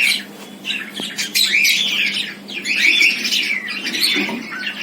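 Cockatiels calling over and over, a string of short bird calls with a brief lull near the start.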